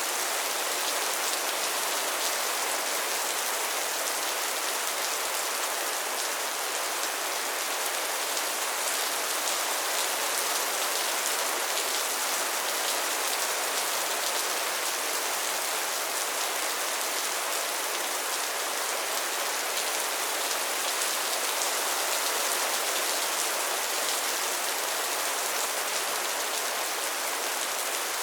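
Steady rainfall: a dense, even hiss of rain on surfaces with fine scattered drop patter and no thunder.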